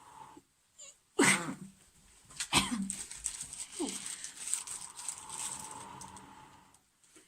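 Two loud, short pitched cries that fall in pitch, about a second in and again a second later. They are followed by a long, steady breathy rush of air as a person blows hard into a smouldering tinder bundle of juniper bark and charcloth to coax the ember into flame.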